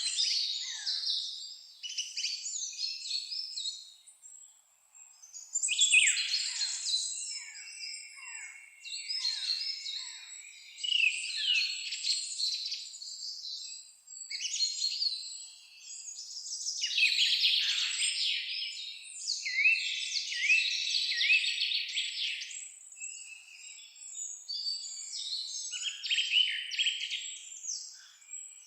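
Songbirds singing: high, rapid chirping and trilling phrases that come in bursts of a few seconds with brief pauses between them.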